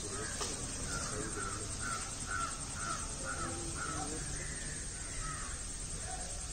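A bird calling in a run of about seven short, evenly repeated notes, roughly two a second, which stops a little past the middle, over a steady low background rumble.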